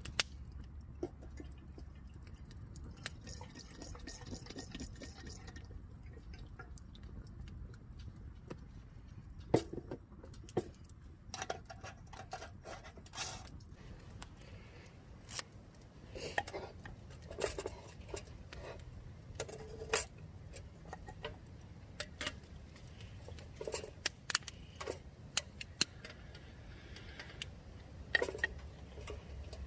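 Scattered light clinks and knocks of camp cookware and utensils being handled, irregular and growing busier about a third of the way in, over a low steady rumble.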